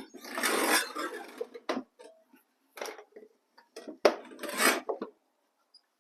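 Diesel heater parts being handled, turned and fed through a hole: scraping and clattering of hard parts in several bursts, with the longest in the first two seconds and again about four seconds in.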